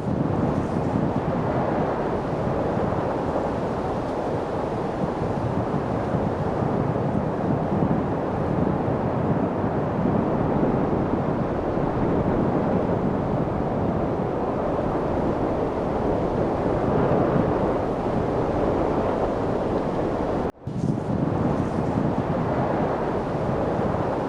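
Steady rushing wind noise, even and unbroken, that cuts out for a split second about three-quarters of the way through before resuming, like a loop seam.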